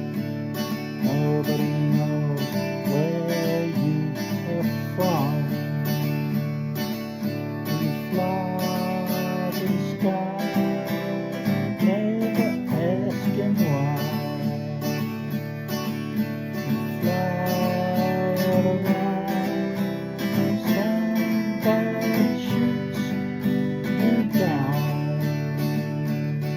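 Acoustic guitar strummed steadily, with a melody line over the chords that bends up and down in pitch.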